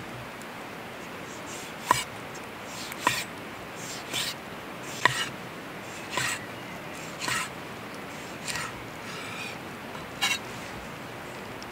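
Nine sharp taps, each followed by a short scraping rasp, coming about once a second in a steady rhythm, like a kitchen utensil or knife working food against a hard surface.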